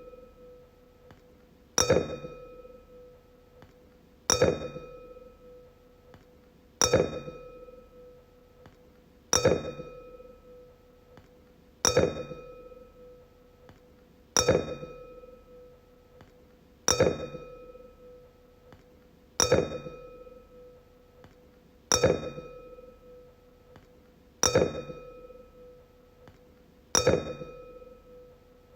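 A wine glass is struck about every two and a half seconds, eleven times in all. Each tap rings out as a clear tone that fades over a second or two.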